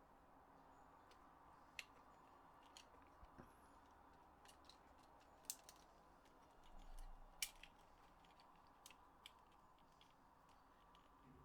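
Quiet room tone broken by scattered small clicks and taps of hard plastic controller parts being handled, with a sharper click about five and a half seconds in and another near seven and a half.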